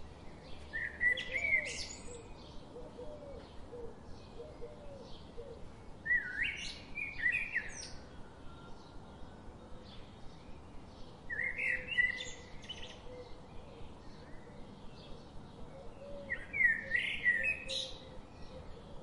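Birdsong: a bird's song phrase of quick gliding whistled notes, repeated four times about five seconds apart, over faint short chirps at about two to three a second.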